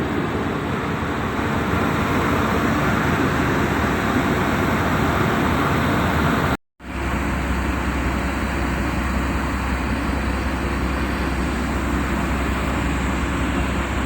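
Engine running steadily with a constant rumble and hiss. It cuts out abruptly for an instant about halfway through, then comes back with a deeper hum.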